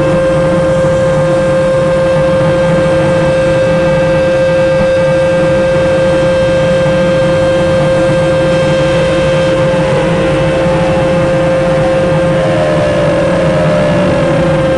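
Mark VII Aqua Jet GT 700 car wash's dryer blowers running with a loud, steady whine and rush of air, then starting to wind down with a falling pitch near the end as the drying cycle shuts off.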